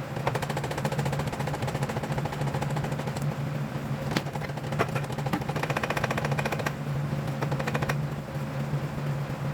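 A steady low machine hum with a fast, even rattling clatter over it.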